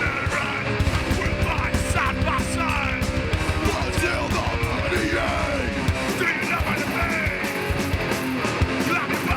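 Live hardcore band playing loud: heavy distorted electric guitars and drums, with yelled vocals.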